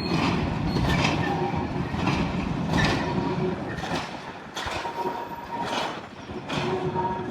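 A train moving through the station: steady rumbling with wheels clacking over rail joints roughly once a second, and a faint wheel squeal in the background.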